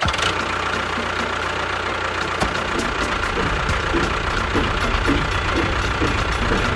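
Engine idling steadily with a regular knocking beat, about two to three knocks a second, like a small diesel tractor engine.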